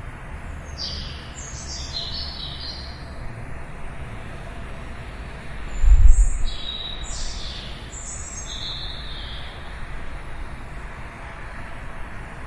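Small birds chirping in quick clusters of short, high notes, in a few separate bouts. Underneath runs a steady low rumble that swells sharply for a moment about six seconds in.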